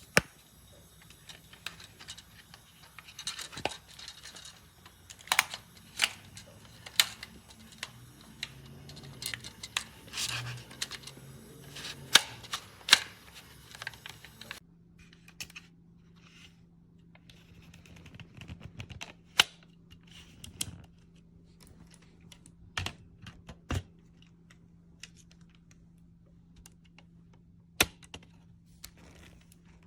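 Scattered sharp clicks and taps of hard objects being handled, irregular and closely spaced in the first half, sparser later. A faint steady low hum comes in about halfway.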